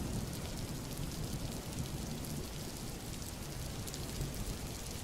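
Steady rain falling on a road: a dense patter of drops over an even hiss, with a low rumble underneath that eases in the first seconds.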